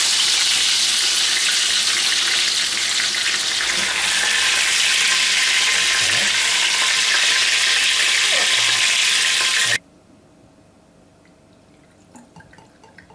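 Spatchcocked chickens (chicken tabaka) frying in hot fat in frying pans: a steady, loud sizzle while they are lifted out with tongs. The sizzle cuts off suddenly about ten seconds in.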